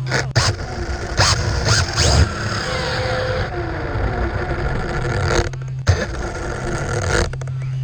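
Traxxas 4-Tec electric RC car on a speed run: a faint motor whine falls in pitch around the middle of the clip, over a steady rushing noise, with several sharp knocks.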